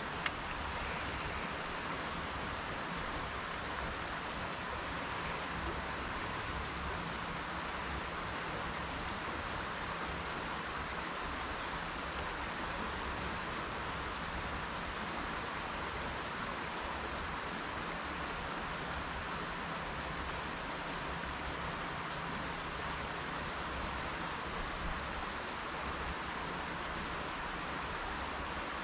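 Steady rush of flowing creek water, with a short, high chirp repeating about once a second over it and a single click just after the start.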